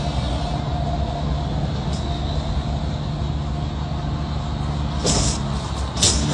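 Road vehicle running: steady engine rumble and road noise, with two short hissing bursts near the end.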